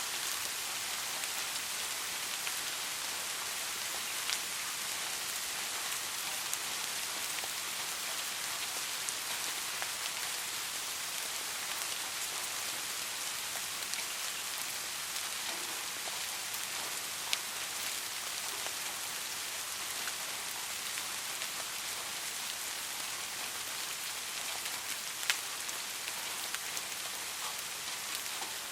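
Steady soft rain falling, an even hiss with occasional single louder drop clicks.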